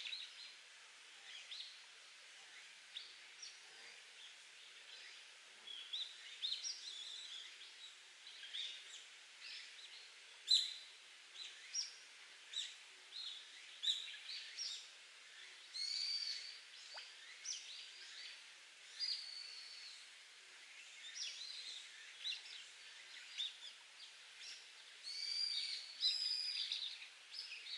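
Wild birds chirping and calling in many short, irregular notes over a faint steady hiss of trickling spring water.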